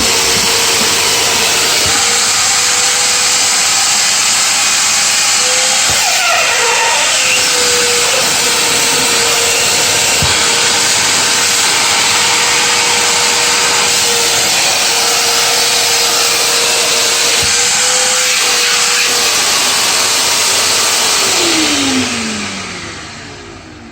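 Eureka Forbes Wet and Dry NXT vacuum cleaner running with its hose attached: a loud, steady rush of air with a steady motor whine. It is switched off near the end, and the motor winds down with a falling whine.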